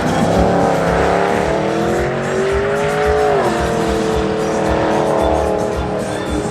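Truck engine revving hard with tyres squealing, as in a burnout: the pitch climbs slowly for about three seconds, drops sharply, then holds steady.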